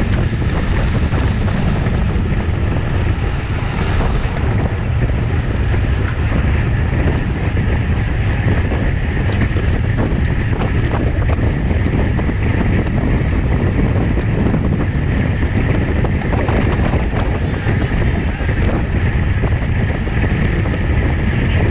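Steady, loud wind rushing over the microphone of a bicycle-racing onboard camera at race speed.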